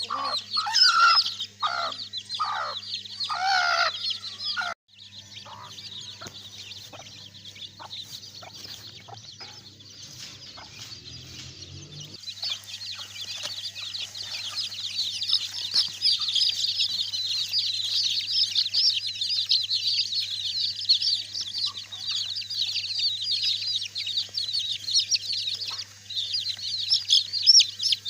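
Many domestic chicks peeping together in high, overlapping cheeps. In the first few seconds a hen clucks over them in short repeated calls. After a break, the peeping carries on without her and grows louder and busier about twelve seconds in, over a faint steady electrical hum.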